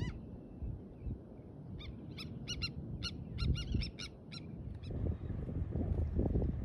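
A bird calling in a quick series of short, high-pitched calls for about three seconds, over a low rumble of wind. The wind rumble on the microphone grows louder near the end.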